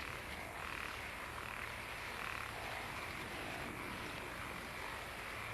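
A steady chorus of frogs croaking in the night.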